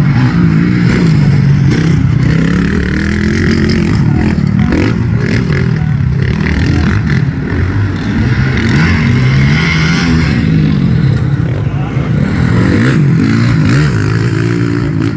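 Several motocross bike engines revving, their pitches rising and falling and overlapping, loud and continuous.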